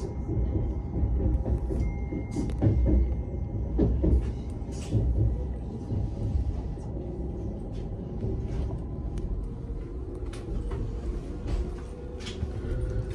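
Modern passenger train running at speed, heard inside the carriage: a steady low rumble with scattered clicks and knocks.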